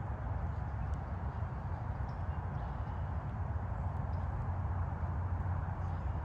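Steady low rumble of distant highway traffic, with faint short bird chirps now and then above it.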